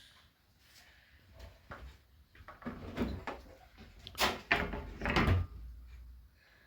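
Knocks, clicks and clatter of a vacuum cleaner's plastic parts being handled and taken apart, with a few louder bumps in the middle.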